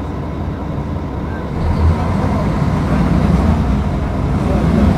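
Diesel engine of a Mercedes-Benz O500UDA articulated city bus running, its rumble growing louder about one and a half seconds in as it takes on more throttle.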